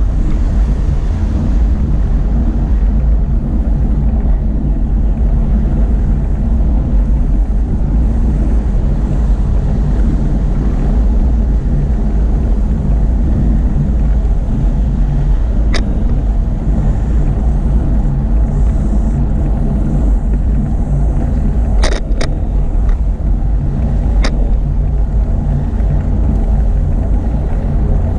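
Steady low rumble of wind buffeting the microphone and traffic noise during a bicycle ride, with a few sharp clicks or knocks: one about 16 seconds in and a cluster around 22 to 24 seconds.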